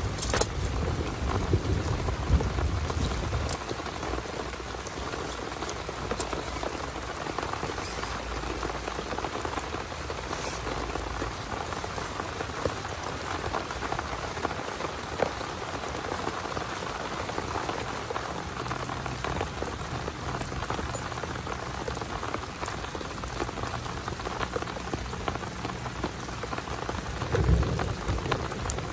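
Heavy rain falling steadily in a dense, even patter. A low rumble sits under it during the first few seconds and comes back near the end.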